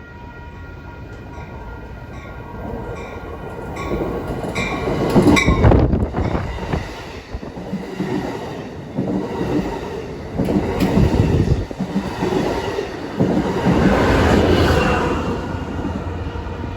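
Amtrak passenger train with a Siemens Charger locomotive passing close by. A few faint high steady tones fade out early, then the rumble builds to its loudest about five seconds in and carries on unevenly as the cars go by, with wheels clattering on the rails.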